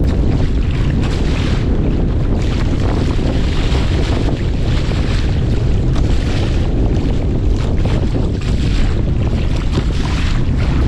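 Strong wind buffeting the microphone with a heavy rumble, over choppy sea water splashing and washing in irregular surges.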